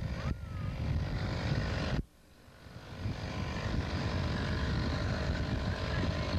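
Boat motor running with a steady drone, dropping out sharply about two seconds in and building back up.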